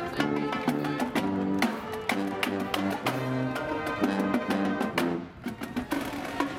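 Marching band playing: brass instruments holding a chordal melody over regular drum strokes.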